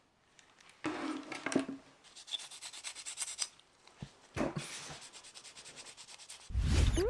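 Bursts of rubbing by hand on a part, with quick, rapid strokes, starting about a second in. Near the end a louder, low-pitched sound with a quick rising squeak.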